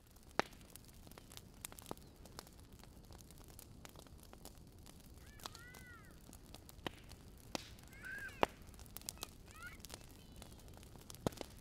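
Bird calls: three small groups of short, arched calls, about halfway through, two-thirds through and near the end. Scattered sharp clicks run among them over a faint steady background hiss.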